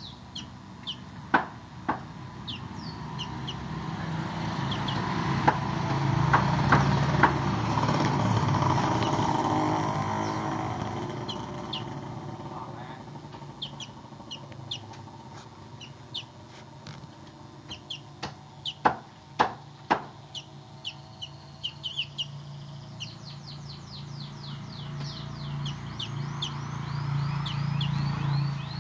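Javan bush lark (branjangan) calling in short high chirps, breaking into a fast run of rapid chirps near the end: the 'ngeriwik' chatter. A low rumble swells and fades twice in the background, and a few sharp clicks stand out.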